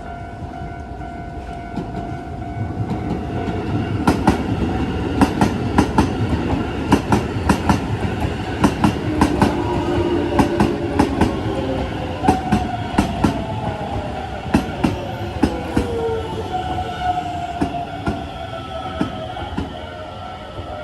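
Electric commuter train passing over a level crossing, its wheels clacking over the rail joints in quick pairs. A motor whine falls in pitch partway through.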